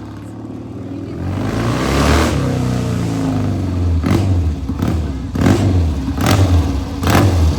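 Classic motorcycle engine running and being revved. It gets louder about a second in, then surges in a steady series about every three-quarters of a second.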